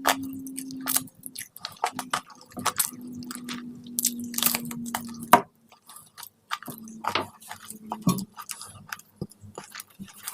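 Close-up chewing and biting of food, with irregular wet smacks and crunches. A low steady hum sounds twice, for about a second at the start and for a couple of seconds in the middle.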